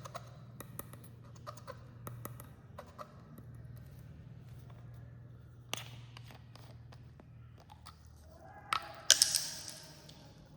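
Carbonated cola fizzing, with many faint crackling pops. There is a sharp click of glass or bottle handling about six seconds in, and a brief louder splash and clink near the end.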